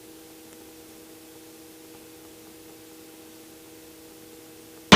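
Steady hiss with a low hum of several steady tones from a helicopter's intercom audio feed, with a sharp click near the end as the line keys up.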